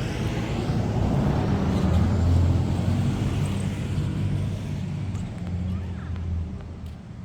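Yellow school bus's diesel engine driving past with a low, steady hum. It grows louder to a peak about two seconds in, then fades as the bus moves away.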